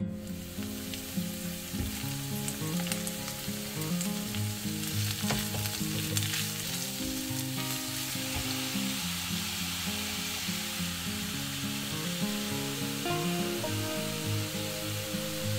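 Grated carrot and chopped onion sizzling steadily in hot oil in a frying pan, stirred now and then with a silicone spatula, over soft background music.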